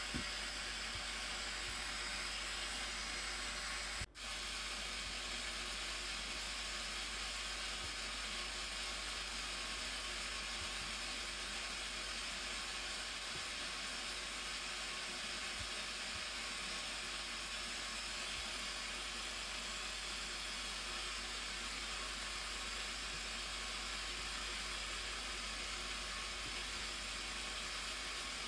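Steady rushing roar of the Blue Nile Falls, an even hiss of falling water, briefly cutting out about four seconds in.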